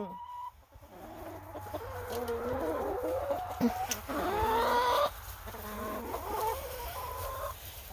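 A flock of Leghorn hens clucking and murmuring, several birds at once, with one louder, drawn-out call about four seconds in.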